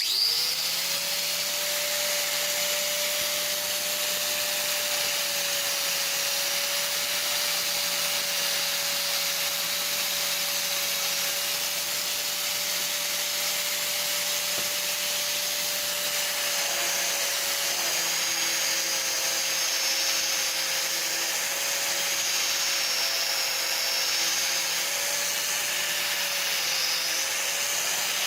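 An electric power tool starts abruptly and runs steadily, with a constant motor hum and a steady abrasive hiss over it, as when rusty metal parts are ground or sanded.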